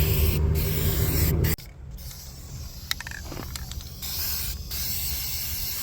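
Spray painting: a steady hiss of paint spray with a low rumble beneath it. The hiss breaks off briefly a few times and drops noticeably in level about a second and a half in.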